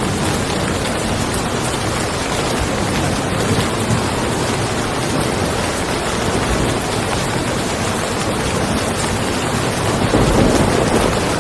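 Steady rain falling on a car, with a low rumble of thunder swelling about ten seconds in.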